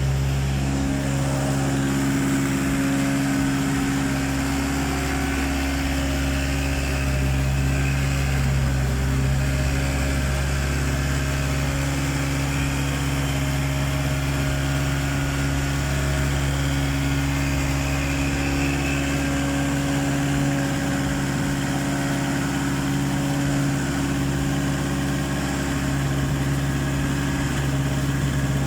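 Toyota 2AZ 2.4-litre four-cylinder petrol engine running steadily at idle on an engine test stand, out of a car.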